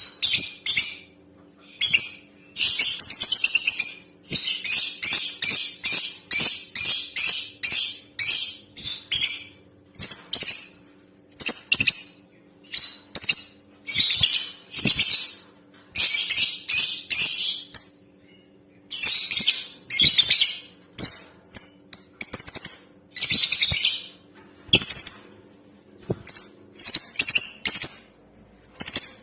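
Female lovebird calling in rapid, shrill, high-pitched chattering runs, with a few longer shrieks and short pauses between bursts. A faint steady hum lies underneath.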